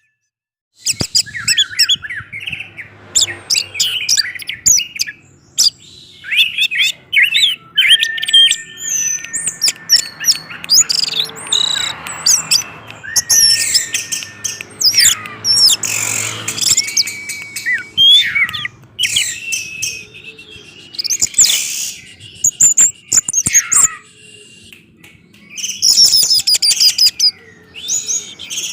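Orange-headed thrush singing a long, varied song of quick whistled and sliding notes mixed with sharp clicks, starting after a brief silence about a second in.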